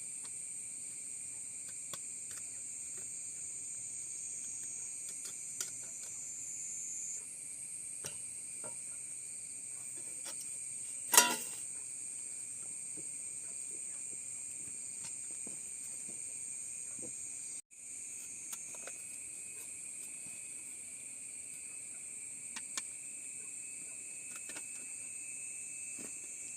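Steady, high-pitched insect chorus, with scattered small clicks and one sharp knock about eleven seconds in. The sound drops out for an instant about two thirds of the way through.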